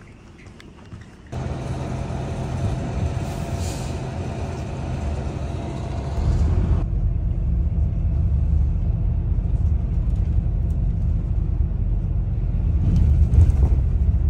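Steady low rumble of a large engine or vehicle, cutting in abruptly about a second in. For the first few seconds a loud hiss of noise sits over it; after that the deep rumble carries on alone.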